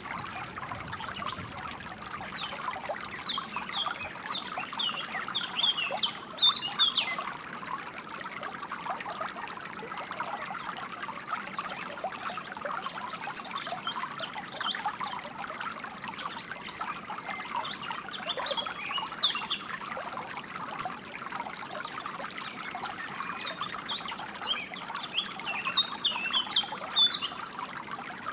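Water trickling and flowing steadily, with three spells of songbird chirping on top: a quick run of high chirps early on, a sparser spell in the middle, and a loud flurry near the end.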